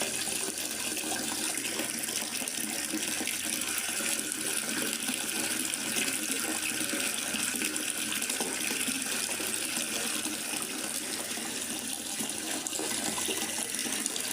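Steady rain falling in a forest: a continuous, even hiss of water with no separate drops or events standing out.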